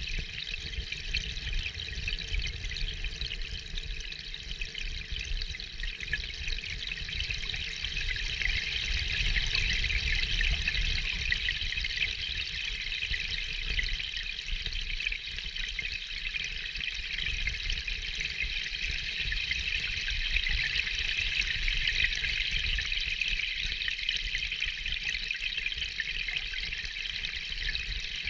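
Steady rain, an even hiss of water with a low rumble underneath, rising and falling slightly.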